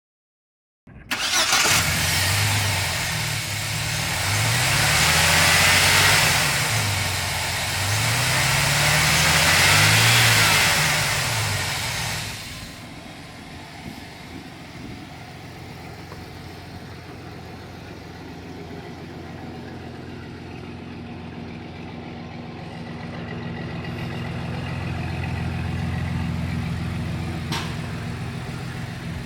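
An engine starting, revved up and down twice, then dropping to a steady idle; a single sharp click near the end.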